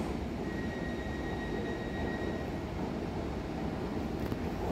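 Merseyrail Class 777 electric train arriving at an underground platform: a steady low rumble, with a faint thin high whine in the first couple of seconds.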